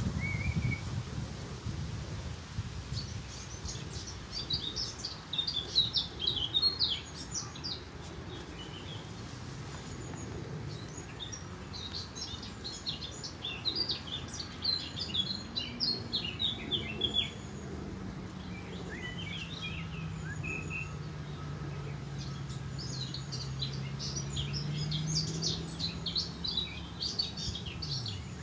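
Birds chirping and twittering in bursts of rapid high notes over a low background rumble. From about halfway, a low droning hum comes in, slowly dips in pitch, rises a little again and stops near the end.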